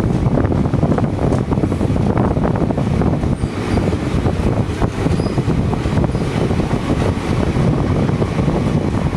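Passenger train running, heard from on board, with wind buffeting the microphone: a steady, loud rumble and rattle.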